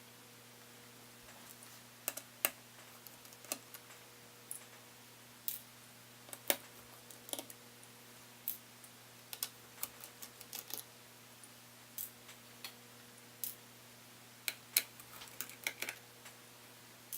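Small irregular clicks and taps of a precision screwdriver and small parts as the heatsink screws inside a MacBook Pro are undone, over a faint steady hum.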